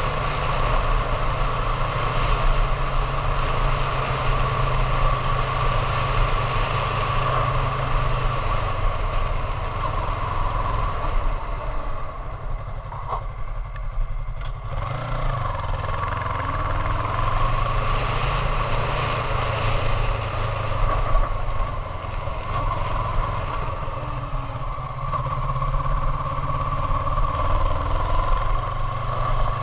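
Honda Hornet 750 motorcycle engine running steadily under way; about halfway through the revs drop and then pick up again.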